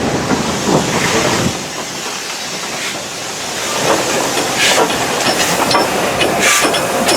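Steam locomotive working, most likely S&DJR 7F 2-8-0 No. 53808, with steam hissing in several sharp bursts over a steady rumble and rail clatter.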